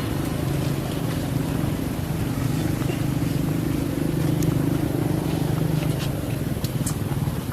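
A steady low engine drone, with a few faint ticks over it.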